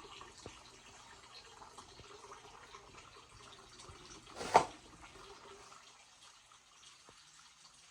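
Faint running and dripping water, with one short loud sound about four and a half seconds in.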